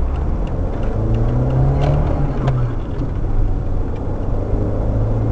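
Car engine running with a steady low rumble; its pitch rises about a second in and eases off again a couple of seconds later.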